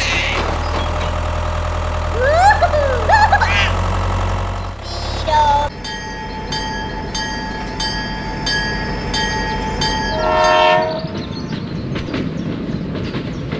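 Sound effects laid over a toy scene. A steady low engine hum with squeaky gliding chirps runs for the first five seconds or so. Then a railroad crossing signal rings in an even rhythm, a short train horn sounds about ten seconds in, and a train rattles along the track near the end.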